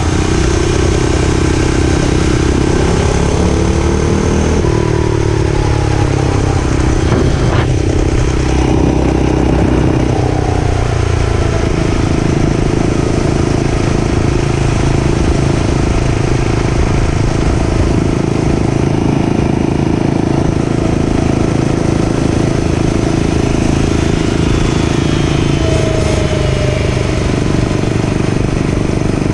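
Dirt bike engine running under way, its note rising and falling with the throttle.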